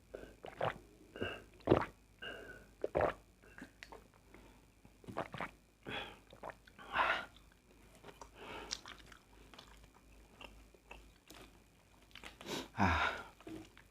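Close-up chewing and mouth sounds of a person eating fried rice, in irregular short bites and smacks.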